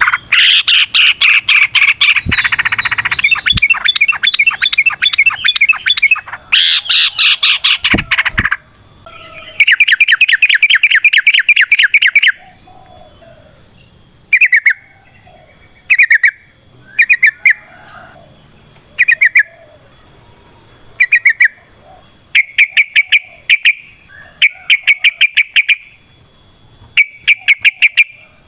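Yellow-vented bulbul (trucukan) singing loud, fast chattering phrases. The song runs in long continuous streams of quick notes for the first twelve seconds or so, then breaks into short bursts of rapid notes every second or two.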